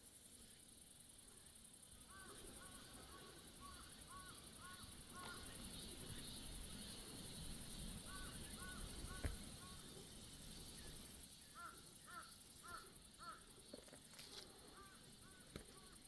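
A crow cawing faintly in four runs of several quick caws each, over a steady high hiss.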